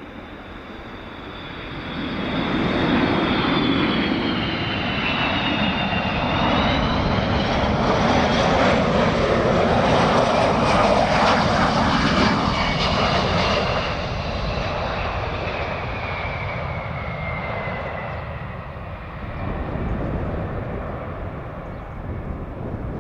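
Four-engined Boeing TC-135W jet passing by with its turbofans running. The engine noise swells about two seconds in, peaks midway and then fades, while a high whine slides steadily down in pitch as it goes.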